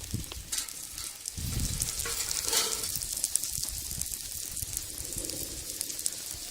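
Food sizzling in a single-handled Peking wok over a wood fire, with many fine crackles. The sizzle swells briefly about two and a half seconds in.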